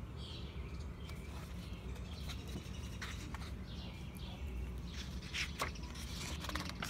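Quiet background with a low steady hum and a few faint bird chirps, and a book page turning near the end.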